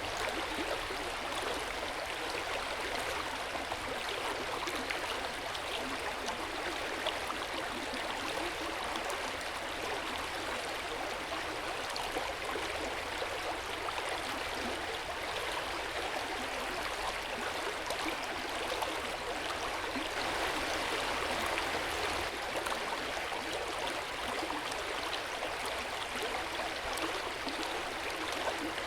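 Hot-spring water flowing into an open-air bath: a steady splashing rush of water with fine trickles and gurgles.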